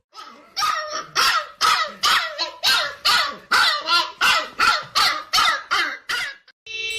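A dog barking repeatedly in a steady series of about two barks a second. Near the end the barking stops, and a loud, steady horn-like tone starts.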